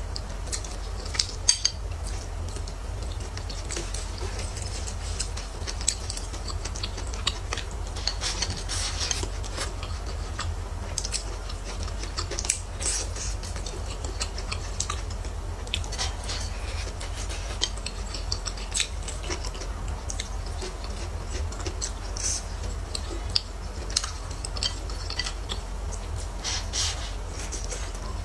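Close-up chewing and mouth sounds, with wooden chopsticks clicking against a plate now and then, over a steady low hum.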